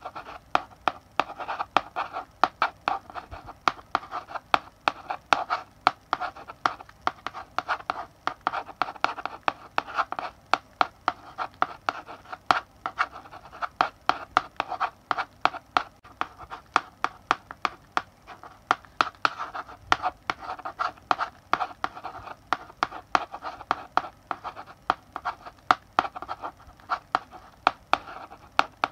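Chalk writing on a blackboard: quick taps and short scratching strokes, one after another, as letters are written.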